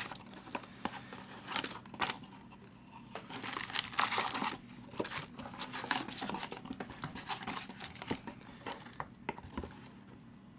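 Trading-card packaging being torn open and handled: irregular crinkling and tearing of wrapper, with small clicks, busiest a few seconds in.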